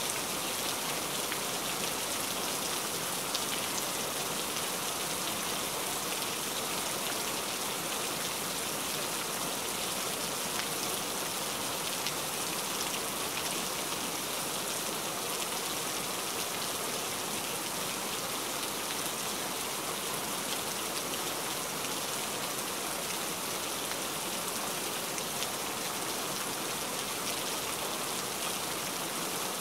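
Heavy rain falling steadily: a dense, even hiss dotted with the ticks of single drops.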